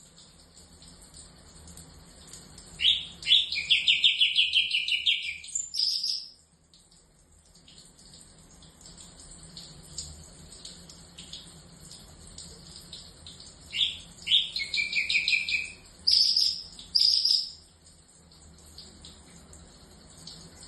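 Orange-bellied leafbird (cucak cungkok) singing in two loud bursts of rapid, trilled repeated notes, the sort of kapas tembak (pied triller) phrasing that kicau-mania keepers train into it, over a faint steady high chirping background.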